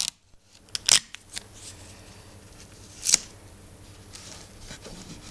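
Sellotape being torn and pressed onto cracked window glass to hold the pieces together: two short, sharp rasps about a second and three seconds in, with quiet handling between.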